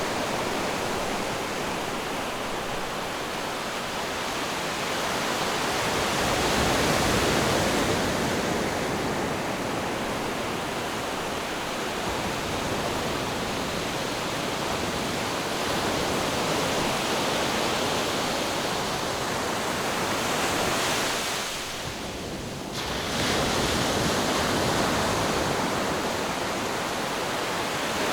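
Ocean surf washing in a continuous rush, swelling and easing slowly, with one brief lull about three-quarters of the way through.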